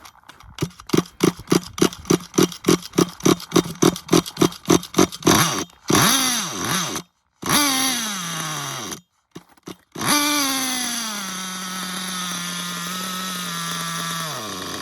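XTM Mammoth monster truck's Dynamite Big Red nitro engine being started: it sputters in a rapid even beat, catches twice for about a second each with its pitch falling as it dies, then runs, settles to a steady idle and stalls near the end. The stalling idle is taken to need a slightly wider idle gap.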